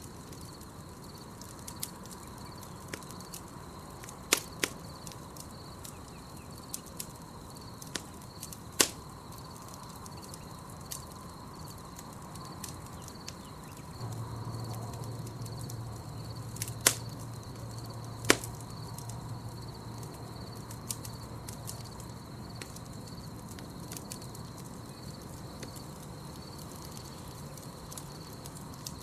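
Campfire crackling, with scattered sharp pops and snaps of burning wood, over a steady high chirring of crickets. A low hum comes in about halfway through.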